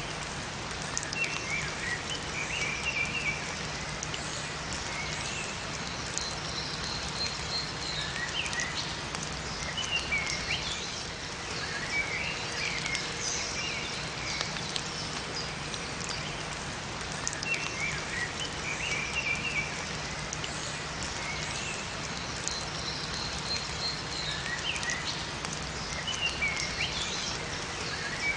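Steady rain falling in a forest, with small birds chirping in short bursts of song that recur about every eight to nine seconds over the patter.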